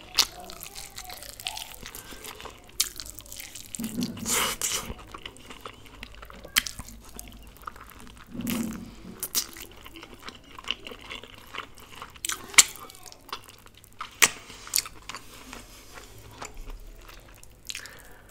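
A person eating chicken wings: biting and chewing, with many scattered sharp clicks. Two longer, louder spells of chewing come about four and eight and a half seconds in.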